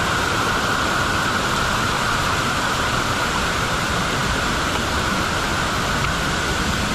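Waterfall cascading over rock ledges into pools: a steady, unbroken rush of falling water.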